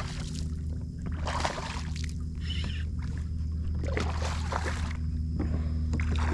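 Water sloshing and splashing around a fishing kayak in repeated swishes about every second and a half, over a steady low hum.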